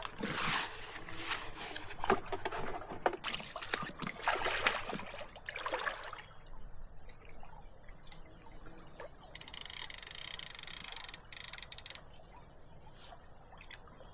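Water splashing and trickling at a river's edge, with many irregular splashes in the first half. Then it goes quieter, and a steady hiss lasts about two seconds.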